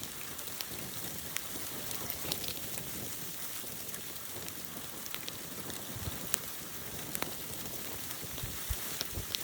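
Steady hiss of a snowstorm, blowing snow and wind, with scattered faint ticks.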